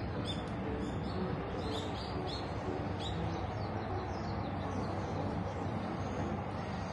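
Small birds chirping: a rapid run of short, high, downward-sweeping chirps, thinning out after about four seconds, over a steady low background hum.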